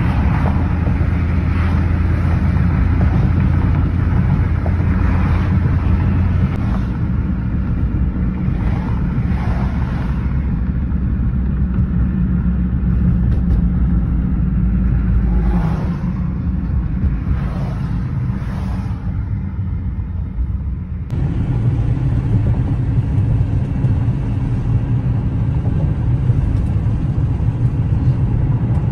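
A Nissan GT-R's twin-turbo V6 running with road noise, heard from inside the cabin while cruising: a steady low rumble. About two-thirds of the way in, the sound shifts abruptly to a slightly different rumble.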